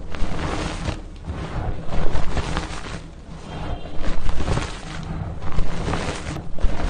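Pasted gym chalk blocks being crushed by hand, crunching and crumbling in repeated surges about once a second.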